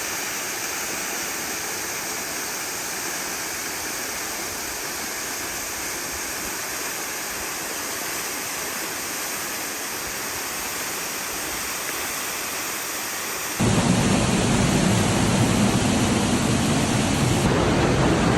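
Steady rushing of a waterfall. About three-quarters of the way through it cuts abruptly to a louder, deeper rush, as if much closer to the falling water.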